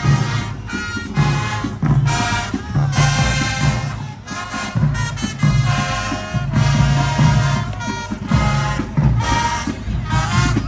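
Marching band playing a loud, brass-heavy tune over a steady pounding drum beat.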